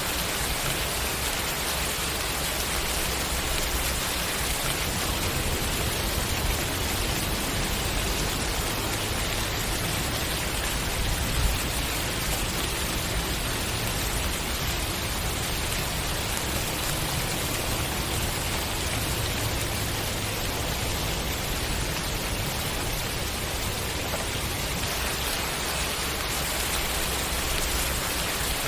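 Steady rain falling and pattering on a surface, an even hiss, with one brief louder drop or tap about eleven seconds in.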